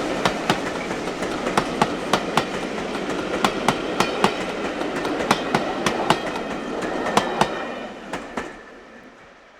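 A train passing, its wheels clicking over the rail joints, often in pairs, over a steady rumble. Near the end the clicks stop and the sound fades away.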